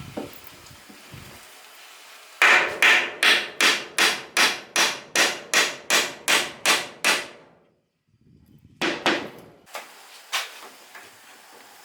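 Hammer striking wood, a steady run of about fourteen blows at about three a second, then after a short pause a few scattered blows.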